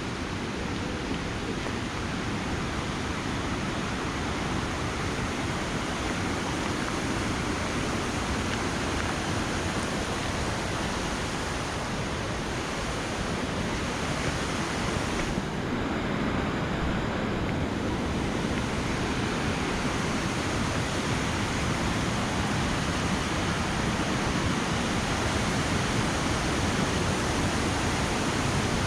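River water rushing over rocks: a steady, even roar of white water that grows slightly louder toward the end.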